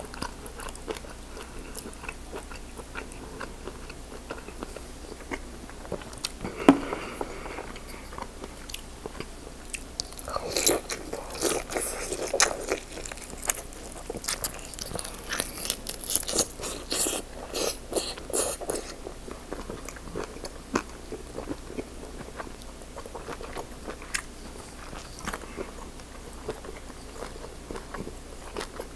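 Close-miked chewing and biting as a person eats butter-dipped lobster tail meat, full of quick wet mouth clicks. It is busiest and loudest from about a third to two-thirds of the way through.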